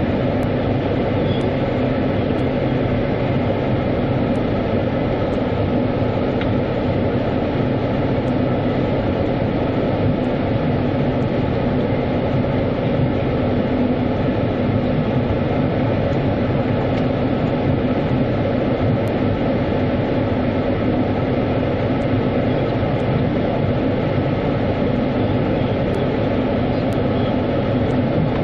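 Automatic car wash running: a steady, unbroken rumble and spray noise with a constant low hum.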